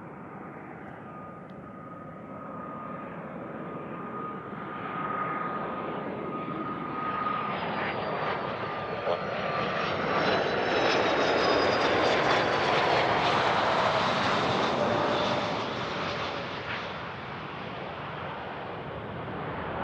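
Jet aircraft passing by, its engine noise building for about ten seconds to a peak and then easing off. The engine whine drops slowly in pitch as it goes past.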